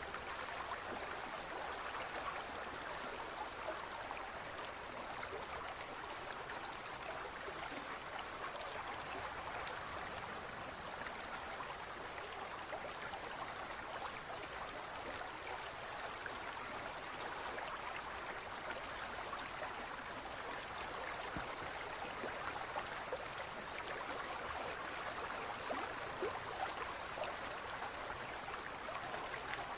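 Running water babbling and trickling steadily, like a small stream.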